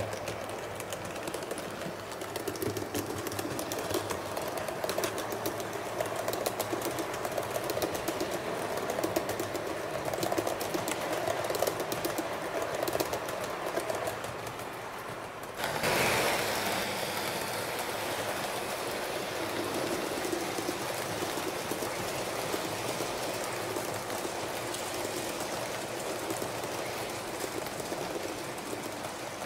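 A train running on rails, with rapid clicking from the wheels over the track. About halfway through, the sound cuts abruptly to a steadier, hissier running noise.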